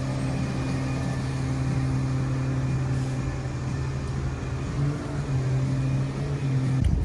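A vehicle's engine or motor running with a steady hum that shifts slightly in pitch about five seconds in and cuts off near the end.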